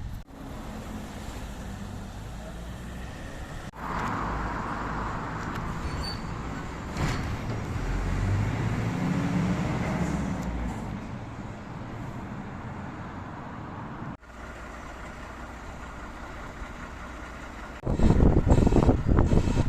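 Road traffic: a motor vehicle's engine rises and fades as it passes, loudest around the middle. A much louder rushing noise comes in near the end.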